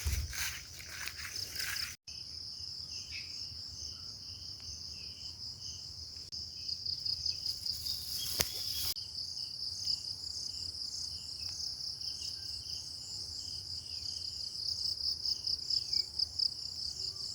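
Insects calling: a steady, high-pitched, pulsing trill, with a fainter, lower chirp repeating about twice a second.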